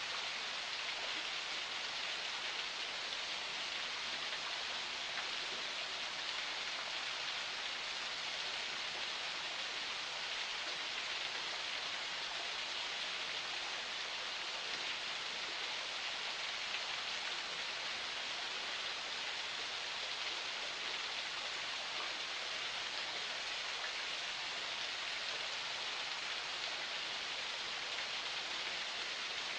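Forest spring water flowing, a steady, even hiss of running water with no breaks.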